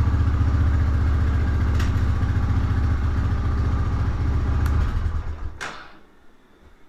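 A 1999 Honda FourTrax TRX300FW's single-cylinder four-stroke engine idles steadily, then shuts off about five seconds in and runs down, with a sharp click as it stops.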